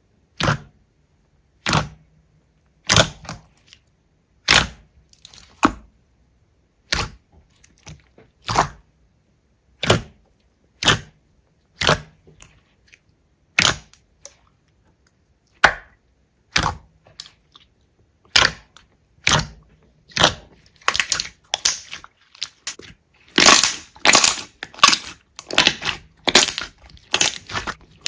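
Slime squeezed and pressed by hand, giving sharp pops about once a second that bunch into quick clusters of pops in the last few seconds.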